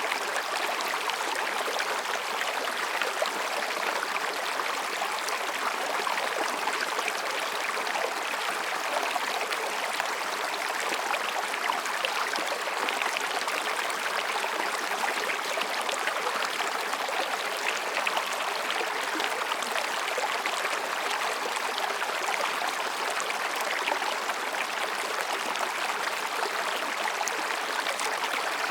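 Mountain stream running over and between rocks, a steady, even rush and babble of water.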